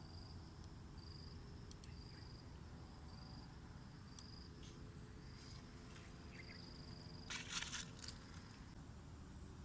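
An insect chirping in short, evenly spaced high-pitched pulses over low background noise, with a brief rustling crunch about three-quarters of the way through.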